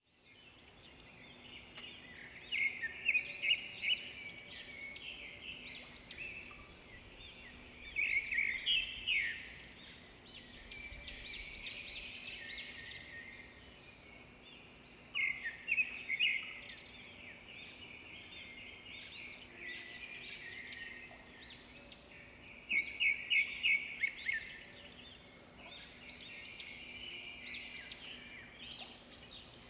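Several songbirds chirping and trilling, with quick bursts of rapid repeated notes every several seconds over a continuous chatter of calls. A faint steady low hum lies underneath.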